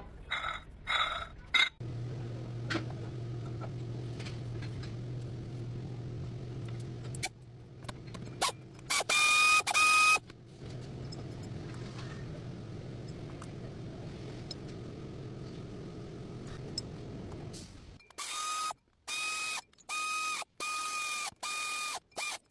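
A vehicle engine running with a steady low hum, broken by clicks. A pitched tone beeps on and off about once a second near the end.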